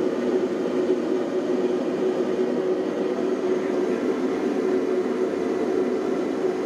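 Gas forge burner running steadily, a constant rushing hum with one steady tone in it, as the knife steel is heated to red hot.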